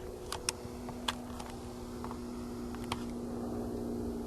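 Distant small propeller plane, its engine droning steadily and growing slightly louder, with a few faint clicks over it.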